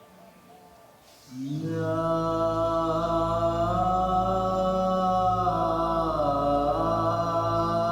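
Chanting: a voice sets in about a second in and holds long, steady notes over a low drone, dipping in pitch briefly near the middle.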